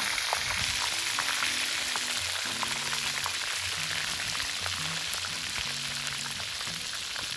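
Oil for garlic-shrimp ajillo sizzling and crackling hard in a pan over a campfire, like deep-frying: the fire is strong and the oil very hot.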